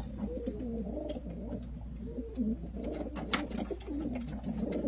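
Several pigeons cooing together, overlapping throughout, with scattered light clicks and one sharper click about three seconds in.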